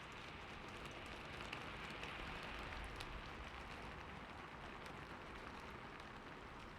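Steady rain falling: an even hiss of rain with a few sharper drop ticks scattered through it.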